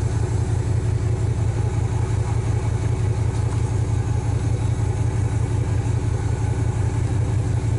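Chevy Tahoe's small-block V8 idling steadily with the hood open. The mechanic suspects its ignition timing is retarded too far or its plug wires are on wrong.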